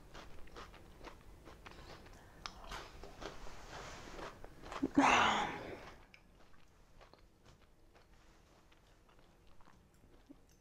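Close-mouthed chewing of a bite of matcha KitKat, the wafer crunching in many small, soft crackles for about six seconds. A louder breathy whoosh comes about five seconds in, and the chewing turns very faint after it.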